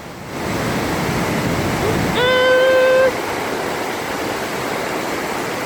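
Flooded river rushing under a bridge: a steady, even noise of fast-moving floodwater. About two seconds in, a single flat, steady tone sounds over it for about a second.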